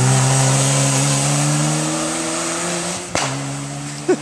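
Rally car engine pulling hard out of a hairpin, its pitch rising steadily through one gear. About three seconds in, an upshift drops the pitch, and the engine fades as the car pulls away.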